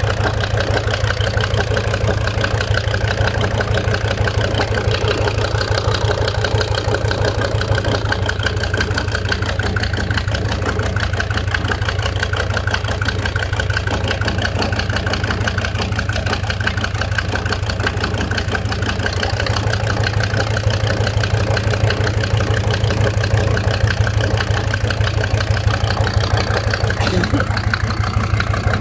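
SsangYong Musso engine idling steadily with a rapid, even knocking, which the owner takes for a knock in the piston group. The low note of the engine changes slightly about 8 seconds in and again about 19 seconds in.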